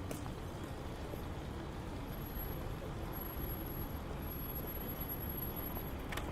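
Steady city street noise with road traffic, plus a faint thin high whine for a few seconds in the middle.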